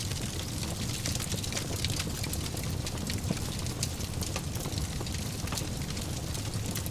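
Wood fire in a fireplace, crackling with frequent irregular pops and snaps over a steady low rumble of the flames.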